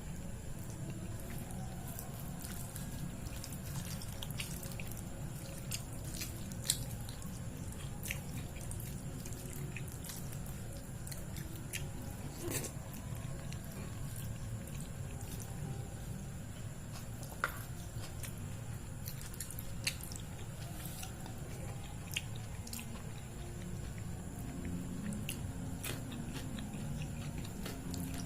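Close-miked eating sounds: wet chewing and mouth smacks of rice with curry, dal and mashed potato, with scattered small clicks and a few sharper ticks, over a steady low hum.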